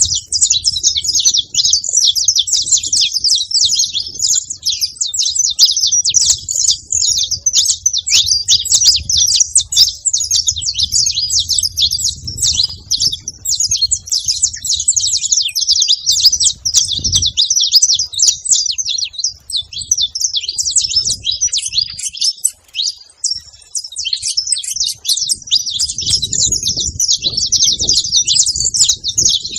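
Several saffron finches (canários-da-terra) singing and chirping together in a dense, unbroken stream of quick high-pitched notes.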